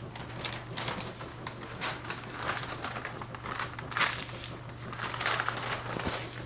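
Pet birds chirping and chattering in short, scratchy bursts, over a steady low electrical hum.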